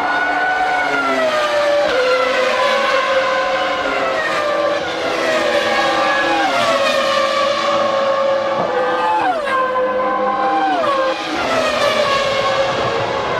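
1996 Formula One car engines running at high revs, several engine notes overlapping. The pitch climbs through the gears and falls in quick downshift steps, most sharply about nine and eleven seconds in.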